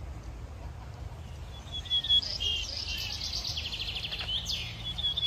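Several birds chirping and calling in short whistled notes and quick trills, starting about two seconds in, over a steady low rumble.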